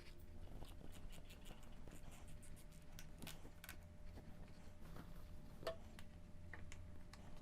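Faint, scattered clicks and light taps of hands adjusting a motorcycle phone mount and its parts, over a steady low hum.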